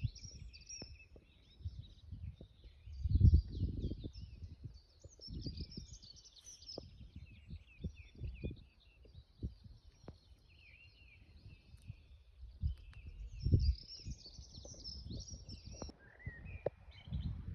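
Small birds chirping and singing continuously, several overlapping calls. Low rumbles and knocks come and go underneath, loudest about three seconds in and again near fourteen seconds.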